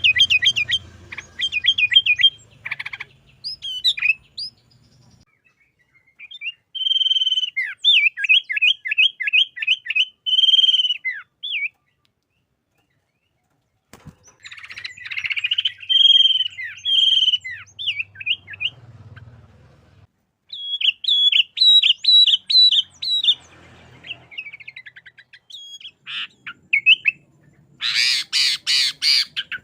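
Sooty-headed bulbul (kutilang) singing in lively bursts of rapid chirping phrases, with short pauses between them. Near the end comes a louder run of harsher notes.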